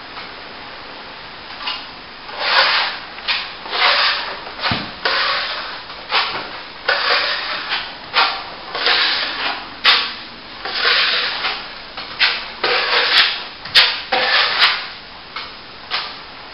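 Steel plastering trowel sweeping over a fresh plaster top coat on a plasterboard repair: a dozen or so scraping strokes, about one a second, starting about two seconds in. The top coat is being polished off.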